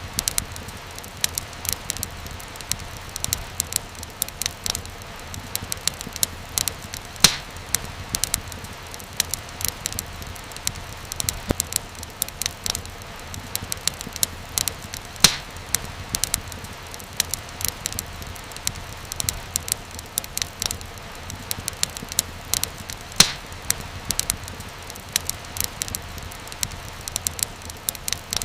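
Wood fire crackling in a fireplace: a steady run of small quick crackles over a low rumble, with three louder pops spaced about eight seconds apart.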